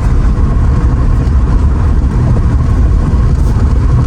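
Steady low rumble of engine and road noise heard from inside a moving Mercedes R129 SL500 with its V8 engine, with a faint steady tone above it.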